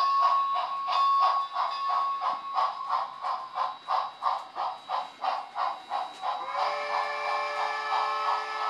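Recorded steam-locomotive sound from a Tsunami sound decoder in an HO scale Baldwin 2-8-0 model, played through its small speaker: a steady, even run of exhaust chuffs. About two-thirds of the way in, a multi-note steam whistle comes in and is held.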